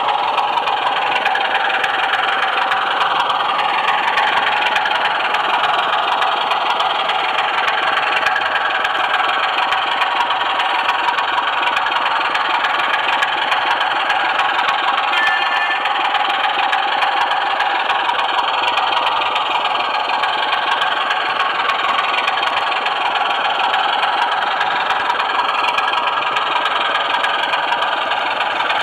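Model train running steadily along the track: the continuous whir of its small electric motor and the rolling rattle of wheels on rails, its pitch drifting slowly up and down.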